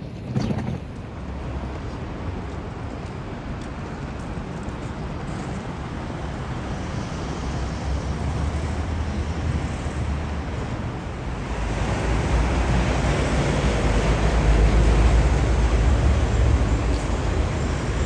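Steady low rumble of vehicle noise that grows louder about twelve seconds in.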